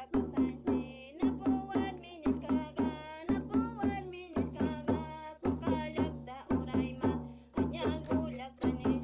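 Music: a voice singing long notes with a wavering pitch over repeated hand-drum beats.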